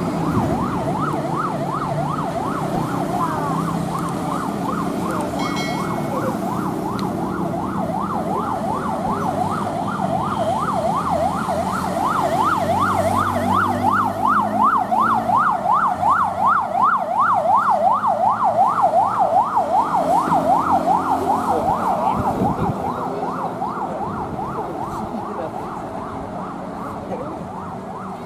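Emergency vehicle siren in a fast yelp, its pitch sweeping up and down a couple of times a second, growing louder to a peak a little past the middle and then fading. Engine and traffic rumble runs underneath.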